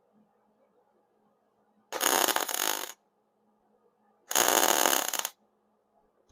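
Two short tack welds from a wire-feed welder, each about a second of steady crackling arc that starts and stops abruptly, joining bolts into the forks of a small scrap-metal motorcycle.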